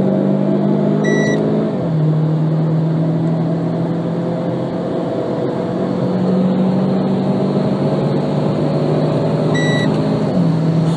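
Renault Clio IV RS's turbocharged 1.6-litre four-cylinder under hard acceleration, heard from inside the cabin. Its pitch climbs steadily and drops sharply at two upshifts, about two seconds in and near the end. A short beep sounds just before each shift.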